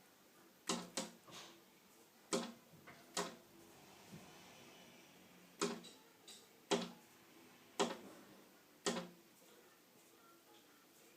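A bird striking a window pane over and over: sharp knocks on the glass, about eight of them at irregular intervals, some in quick pairs.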